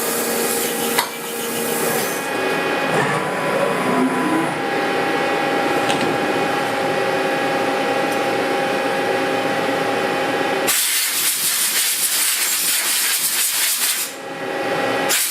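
Okuma LNC-8 Cadet CNC lathe parting off a heat-treated 4140 steel spacer: the spindle and drives whine in steady tones under the hiss of flood coolant aimed at the parting insert, with a brief rise in pitch a few seconds in. For about three seconds near the end a much brighter, louder hiss takes over.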